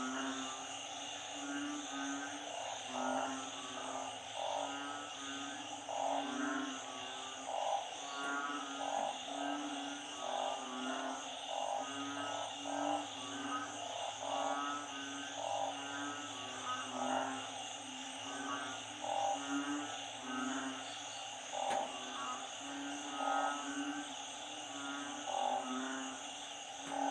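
Dense chorus of frogs: narrow-mouthed frogs (อึ่ง) and small frogs (เขียด) calling over and over, low repeated croaks mixed with quicker trilling calls, over a steady high insect drone.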